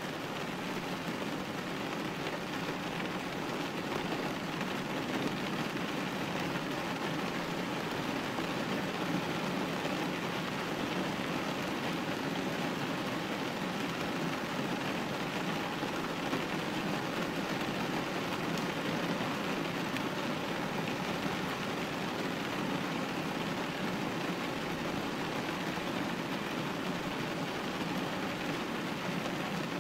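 Steady rain falling and pattering on a window pane, a dense, even hiss of drops with no distinct individual hits.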